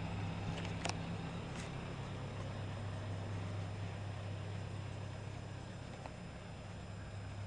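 Scania R730's V8 diesel engine idling with a steady low hum, with a couple of faint clicks about a second in.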